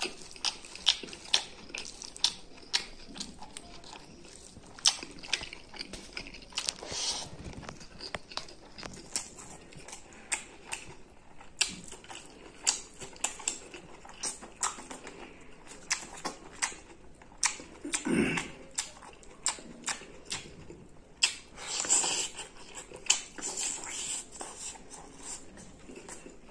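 Close-up eating sounds of a man chewing rice and chicken curry that he eats by hand: many short wet clicks and smacks of the mouth, with two louder mouthfuls about eighteen and twenty-two seconds in.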